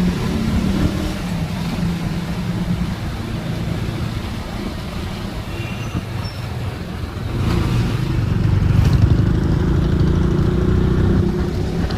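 Road traffic rumbling steadily, growing louder for a few seconds from about seven and a half seconds in as a vehicle passes close by.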